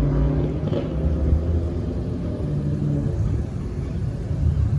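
A car engine running with a low, steady rumble.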